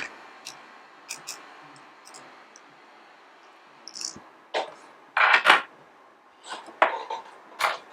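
Small metal tools and parts clinking and tapping on a work surface. Scattered light clicks, a louder clatter about five seconds in, then a few more clicks near the end.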